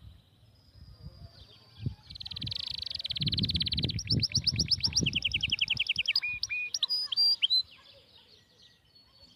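A songbird singing one long phrase: a buzzy trill, then fast repeated notes, then a few short whistled notes near the end. Low muffled thumps sound underneath through the middle.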